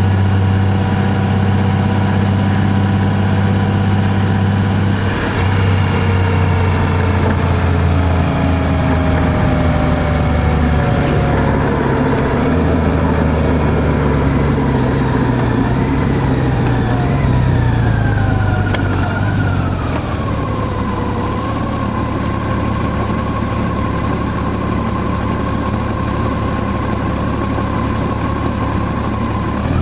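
Car engine running while driving along a road. The engine note falls as the car slows, about two-thirds of the way through, then holds steady.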